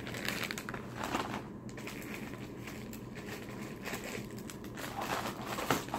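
Snack packaging and the shipping box being handled, with soft rustling and scattered crinkles and crackles of wrappers.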